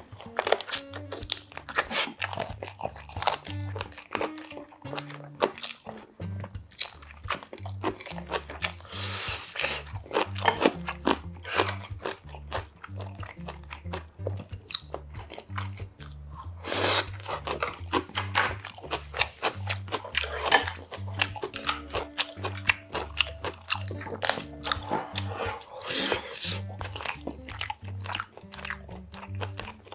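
A person eating close to the microphone: chewing with many crisp crunches and wet mouth sounds, including bites of cabbage kimchi, the loudest crunch about two-thirds of the way through. Soft background music with a repeating bass line plays underneath.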